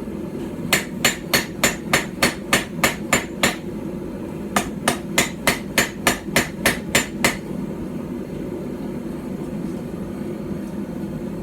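A small hand-forged hammer of about 12 ounces striking steel on a stump anvil while forging a knife. There are two runs of quick, ringing blows, about three or four a second: the first starts under a second in, the second comes after a short pause and stops a little past halfway. A steady low background noise runs underneath and is all that is left for the last few seconds.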